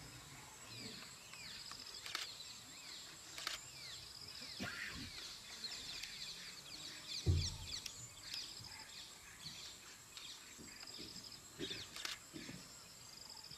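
Several birds chirping and calling in short, quick falling notes over a steady high-pitched drone. A few sharp clicks and one low thump about seven seconds in, the loudest moment, are heard alongside.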